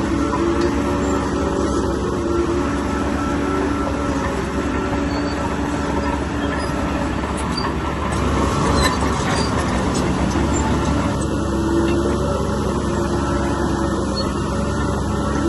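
Bulldozer's heavy diesel engine running under load with its steel tracks clanking and squealing, and a brief burst of clatter about eight seconds in.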